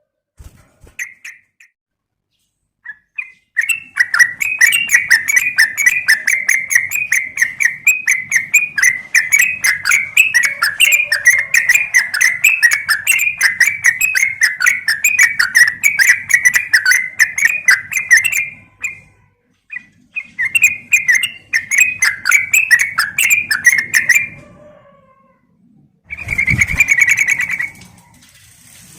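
Yellow-vented bulbul (trucukan) calling in a rapid chatter of short, bright notes, several a second, in two long runs with a brief pause between them. A shorter burst follows near the end.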